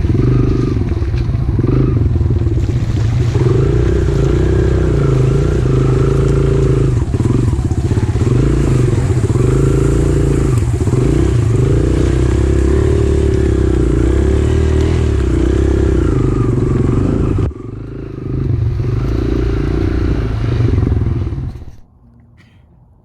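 Pit bike engine running under riding, its revs rising and falling over and over. The sound drops suddenly about seventeen seconds in, comes back briefly, then cuts off near the end.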